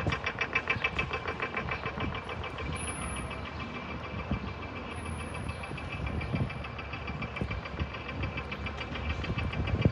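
A motor vehicle's engine idling close by, with a fast, even knocking clatter that is loudest in the first few seconds and then fades.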